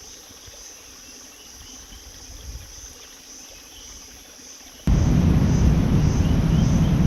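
Faint, steady, high insect buzz with a few small chirps. About five seconds in, a loud low rushing noise cuts in suddenly and drowns it.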